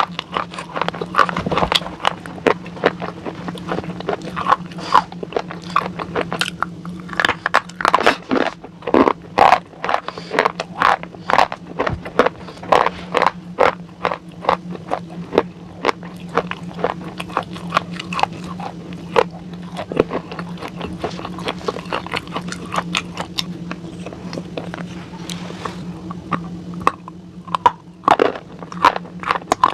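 Close-miked biting and chewing of something hard and brittle, with many sharp crunches in quick succession over a steady low hum.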